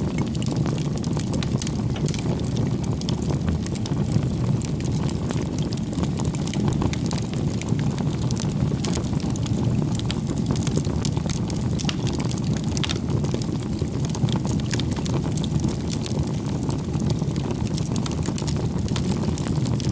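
Wood campfire burning: frequent irregular crackles and small pops over a steady low rumble.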